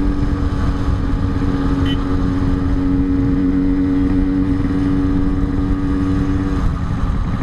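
Yamaha RX-King's two-stroke single-cylinder engine running at a steady pitch while being ridden. Its note falls away about six and a half seconds in.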